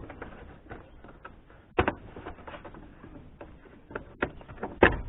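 Irregular small clicks and taps of a hand tool turning a screw out of a car's interior trim, with two louder knocks, one about two seconds in and one near the end.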